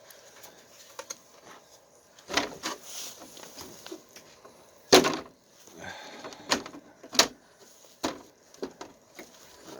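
Irregular plastic knocks and clicks from a Traxxas RC truck's plastic body and body clips being handled and fitted, the loudest knock about five seconds in.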